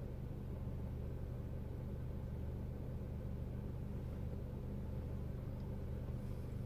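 Peugeot RCZ 1.6 THP turbocharged four-cylinder petrol engine idling with a steady, even hum.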